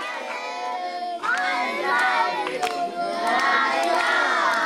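A group of children singing together, many voices at once with long held notes, growing louder about a second in.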